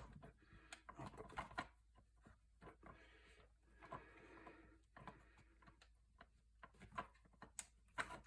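Faint clicks, taps and rubbing of small parts being handled while a rubber fuel line is worked onto the carburetor fittings of a small engine.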